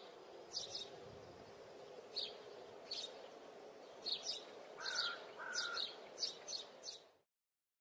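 Birds chirping: short high chirps every half second to a second, with two lower whistled notes about five seconds in, over faint steady background noise. The sound cuts off suddenly about seven seconds in.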